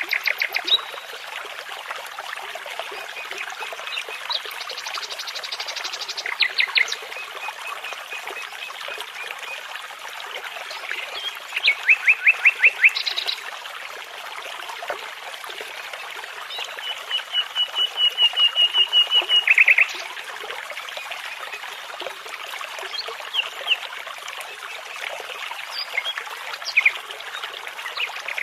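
Nightingale singing in separate phrases of fast repeated notes, one long series near the middle growing louder, over the steady rush of a babbling brook.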